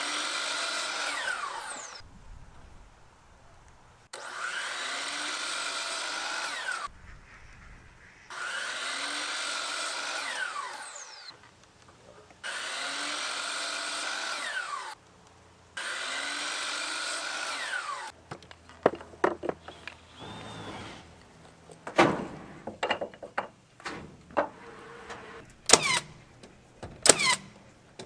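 Power drill run in five bursts of two to three seconds each, speeding up at the start of each and winding down at the end, as it drives screws into wood. In the last third come a series of sharp knocks and clatters.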